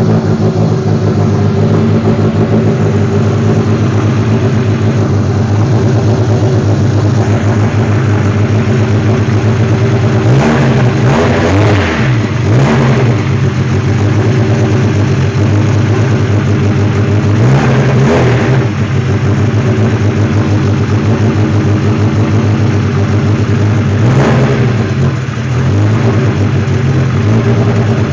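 Toyota 5S-GTE turbocharged four-cylinder engine running on its first startup in an MR2, idling steadily with a few brief revs that rise and fall.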